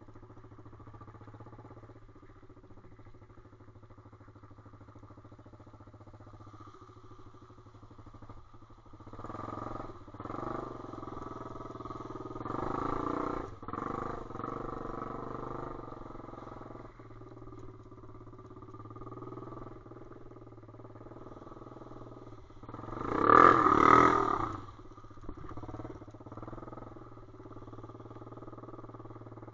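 A single-cylinder pit bike engine running under way. It is opened up harder from about nine to sixteen seconds in, and there is a brief loud surge about twenty-three seconds in.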